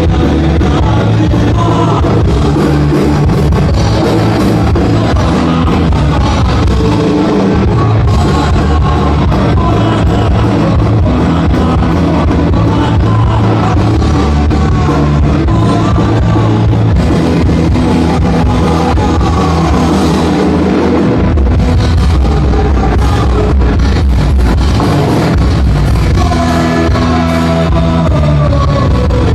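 Loud rock music with electric guitar, drums and a singing voice, playing without a break.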